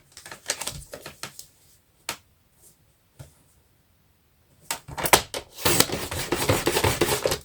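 Light clicks and taps as a card blank is positioned, then, about five seconds in, a scratchy cutting sound lasting a couple of seconds as the card stock is cut.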